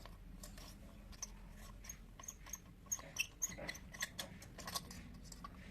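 Light metallic clicks and taps, a dozen or so scattered irregularly, some with a brief high ping, as an Allen key works on the loose fan of a hot air oven and the metal parts are handled. A faint low hum runs underneath.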